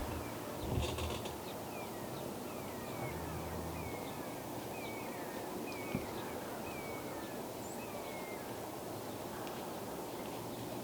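A small bird calls a string of short slurred chirps, about two a second, over a steady woodland hiss, from about two seconds in to about eight. A soft low thump comes about a second in.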